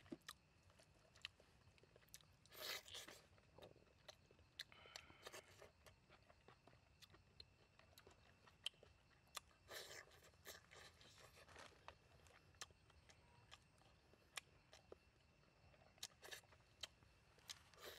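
Faint close-up eating sounds: chewing and crunching of curried goat meat, with scattered sharp mouth clicks and a few louder short bursts about three seconds in, near the middle and near the end.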